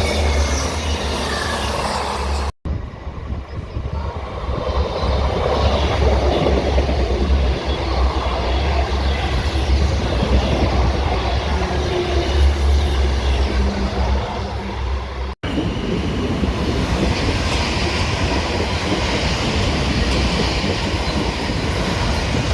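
A train running past on the rails, a loud steady rumble and rolling noise from its wheels. The sound breaks off abruptly twice and resumes at once.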